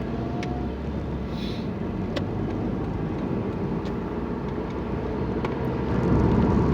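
Road noise inside a moving car: a steady low rumble of engine and tyres, getting louder near the end.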